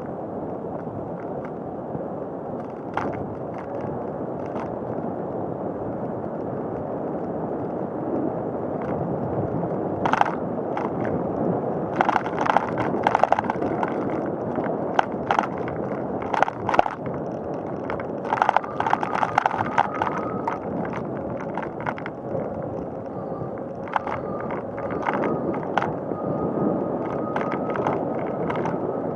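Steady rolling noise of a bicycle ridden along a paved path, with irregular clicks and rattles from the bike that become frequent from about ten seconds in.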